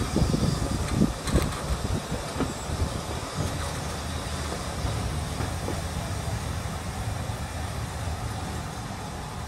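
Passenger train carriage rolling on the rails, heard from inside. A few wheel knocks over rail joints in the first couple of seconds give way to a steady low rumble that fades gradually as the train slows into the station.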